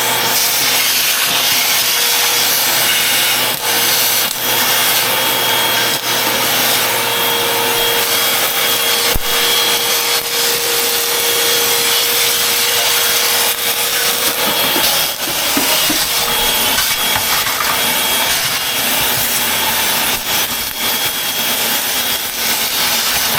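Upright vacuum cleaner running continuously and loudly, its motor hum carrying a steady whine. About two-thirds of the way through, the steady hum drops out and the sound becomes rougher and more uneven.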